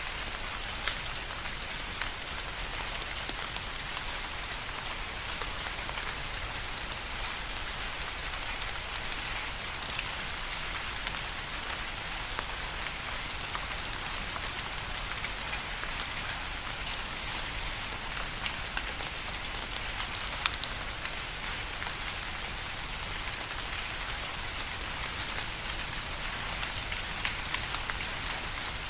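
Steady rain, a dense even hiss dotted with the ticks of individual drops striking a surface.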